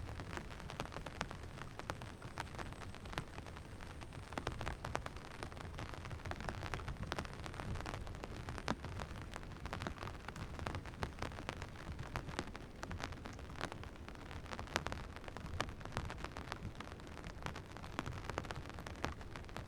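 Rain falling, with dense, irregular sharp taps of drops hitting close by over a steady low rumble.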